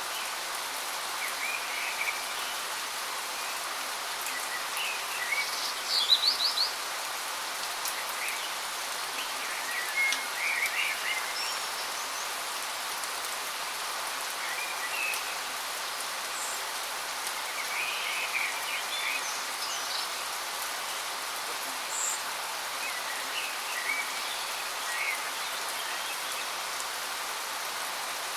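Waterfall rushing steadily, with songbirds chirping in short phrases every few seconds over it; the loudest bird calls come about six seconds in and again around ten seconds.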